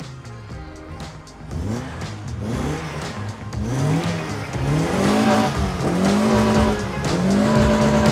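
Modified Ford Escort XR3i engine, with a reprofiled camshaft and a performance exhaust, being revved repeatedly while the car stands still: a series of rises and falls in engine speed, getting louder and held longer toward the end. Music plays underneath.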